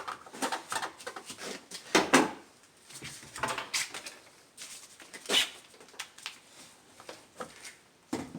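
Hands fitting engine parts back into place: irregular clicks, knocks and short squeaks as pieces are pushed home, loudest about two seconds in and again a little past the middle.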